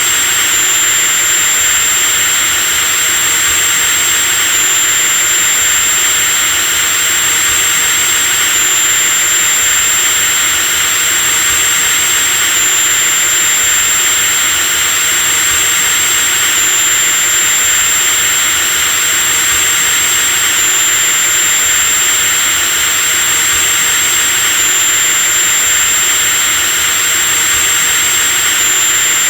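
Electric power drill running steadily at full speed: a high whine over a hiss, unchanging throughout.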